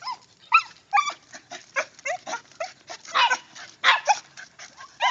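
Dog giving a rapid string of short, high-pitched whines and yips, each call falling in pitch, two or three a second.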